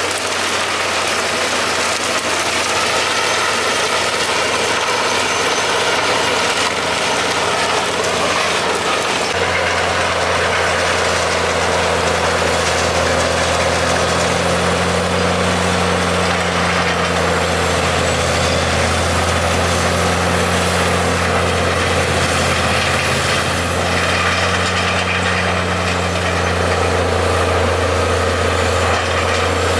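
Claas Xerion 3800 tractor's engine running steadily under a continuous drone, which grows stronger about nine seconds in.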